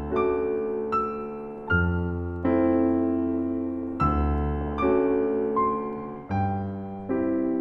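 Background piano music: a gentle solo piano piece, a new chord struck about every second and left to ring and fade.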